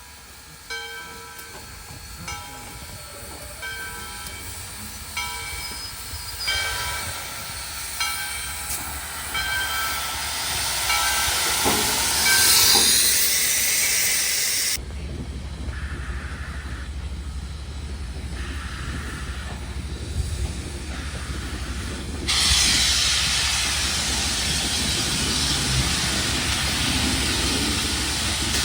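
Train at close range with a bell ringing about once a second over the first ten seconds, then a loud hiss of escaping steam or air. After that comes the low rumble of the train running, with hissing that swells again near the end.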